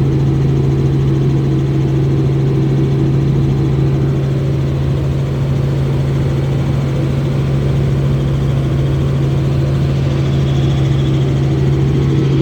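Helicopter engine and rotor running in a loud, steady drone with a strong low hum.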